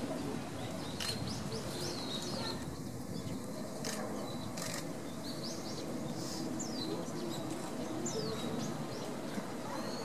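Small birds chirping in short, quick calls that slide up and down, scattered through, over a steady background murmur, with a few sharp clicks.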